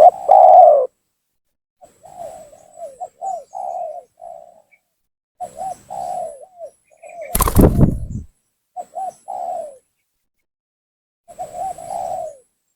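Spotted dove cooing vigorously in repeated short phrases of rolling coos with silent gaps between them: a lure call meant to provoke rival males. About seven and a half seconds in, a loud burst of noise lasting nearly a second cuts across the calls.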